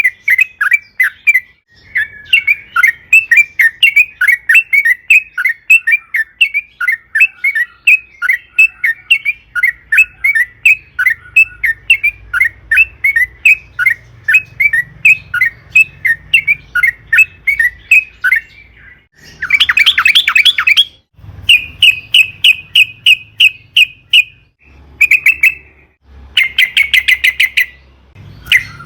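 Yellow-vented bulbul (trucukan) singing in full voice: a long, fast run of short bubbly notes, about three to four a second. After a brief pause about 19 seconds in come bursts of harsh chatter and a fast, even trill held at one pitch.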